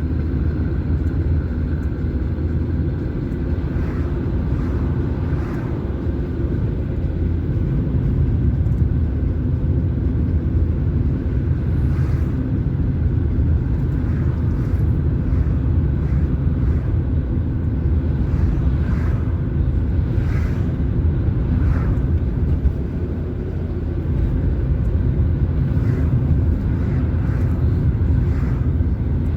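Car driving along a road: a steady engine hum and low road rumble, with light knocks now and then.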